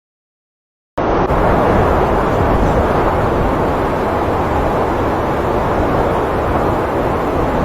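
Blizzard wind blowing hard across the microphone, a steady loud rush with an uneven low rumble, starting abruptly about a second in.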